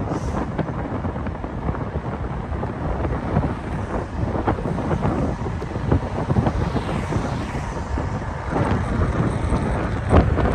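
Wind buffeting the microphone as a rough, steady rumble, with scattered knocks and taps that are loudest near the end.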